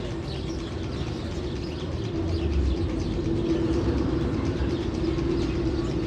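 A steady low mechanical rumble with a constant hum, growing a little louder about two seconds in, with birds chirping over it.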